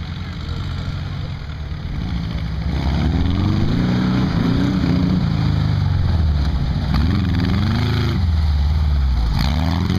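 Volkswagen Beetle Baja Bug's air-cooled flat-four engine revving up and down repeatedly as the car drives on dirt, growing louder about three seconds in as it comes close.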